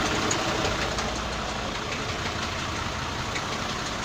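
Volkswagen 17.260 bus chassis's six-cylinder diesel engine idling steadily.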